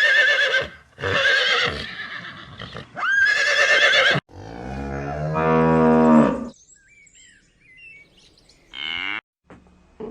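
A run of animal calls: three loud, high, wavering calls in the first four seconds, then a cow mooing in one low call that falls off at its end. Faint short bird-like chirps and a brief sweeping chirp follow near the end.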